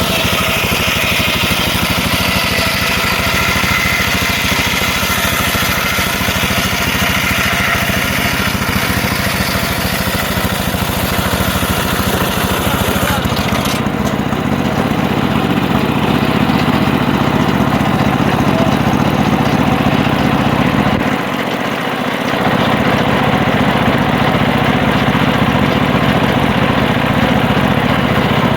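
Homemade engine-driven circular sawmill running steadily while sawing a mahogany log. About halfway through, the high hiss drops away abruptly and a lower, steadier hum takes over, with a brief dip in the low hum about three-quarters through.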